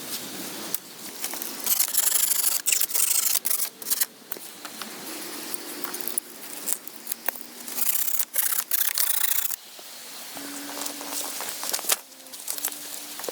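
Irregular scraping and rubbing strokes of hands-on building work, loudest in stretches about two to four seconds in and again around eight to nine seconds in.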